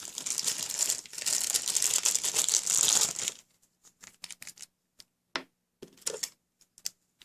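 Close crinkling and scratching handling noise for about three seconds, then a scattering of light clicks and taps.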